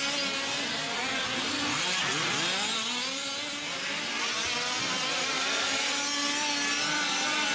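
Several 1/5-scale RC trucks' small two-stroke gas engines buzzing and revving together, their pitches sweeping up and down as they throttle on and off around the track.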